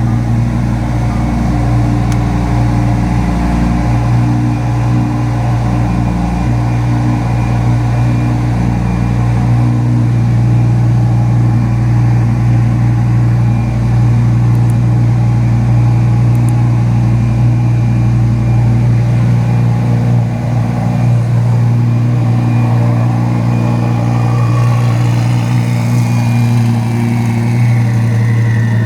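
Twin-turbocharged V10 of a Lamborghini Huracan LP 580-2 running steadily, with a high whine falling in pitch near the end.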